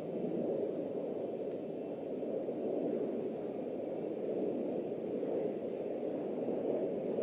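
Steady, muffled noise of jet aircraft engines heard at a distance, an even rumble with no distinct tones or events.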